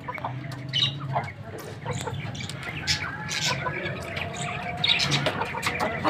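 Birds chirping and squawking: short, scattered calls.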